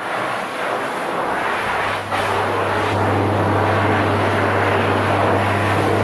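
A loud, steady rushing noise that starts suddenly, with a low steady hum joining in about two seconds in.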